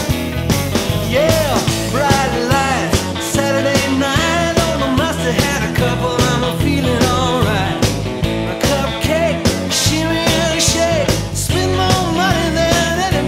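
Instrumental break in a rock and roll song: a lead electric guitar solo with bending notes over a steady drum beat and bass.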